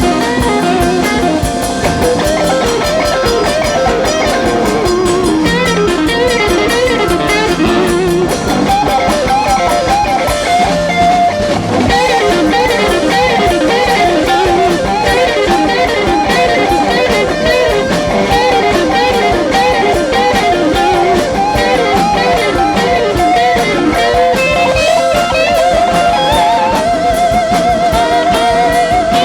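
Live blues-rock band playing an instrumental break: a lead electric guitar plays bent and held notes with wide vibrato over a drum kit and the rest of the band.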